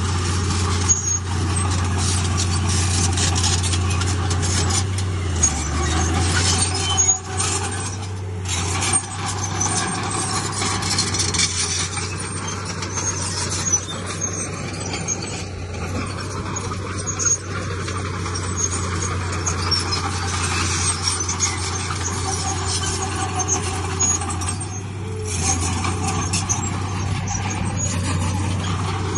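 Heavy diesel earthmoving machinery running steadily under load, with a low, even engine drone and constant metallic rattling and squeaks over it. The engine pitch dips briefly about five seconds in.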